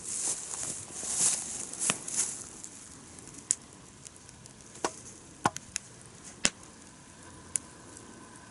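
Wood campfire crackling: several sharp, separate pops of burning firewood over a faint steady background. It opens with a couple of seconds of rustling, scraping noise.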